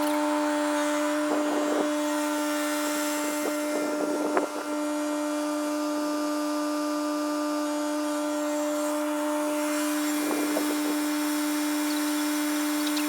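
Portable band sawmill running with a steady high-pitched whine, with brief rough scraping spells a couple of times as it works through wood.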